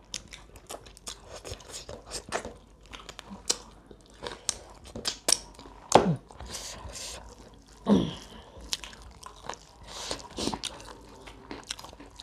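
Close-up chewing and crunching of crispy fried chicken and rice eaten by hand, with many small wet mouth clicks and smacks. Two short falling vocal sounds stand out, about six and eight seconds in.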